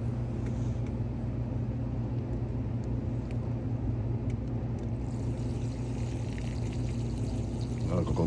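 A steady low motor hum. Near the end a wavering, warbling sound sets in over it.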